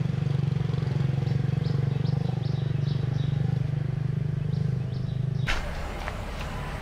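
A small engine running steadily with a fast pulsing beat. About five and a half seconds in it stops abruptly and gives way to outdoor noise with a few sharp knocks.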